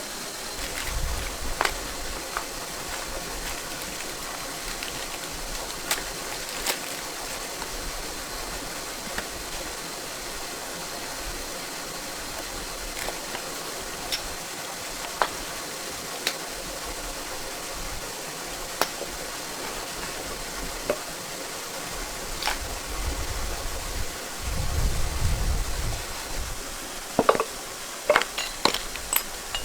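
Steady hiss of rain, with scattered sharp clicks and knocks, a quick run of them near the end, and a low rumble twice.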